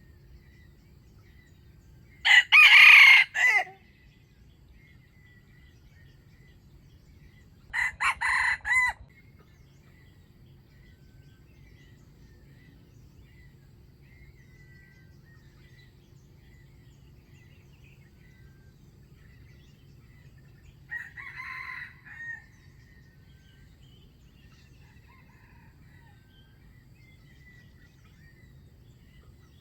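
A red junglefowl (wild chicken) cock crowing three times, each a short clipped crow of about a second. The first is loud and close, the second a little softer, and the third, near the middle, faint and distant.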